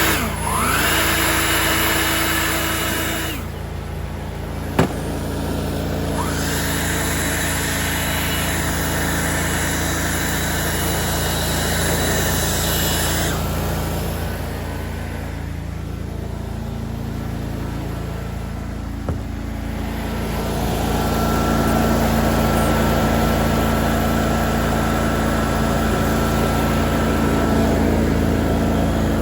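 Lawn mower engine running steadily while mowing, with a hissing layer that comes and goes. Two sharp knocks stand out, about five seconds in and again near nineteen seconds.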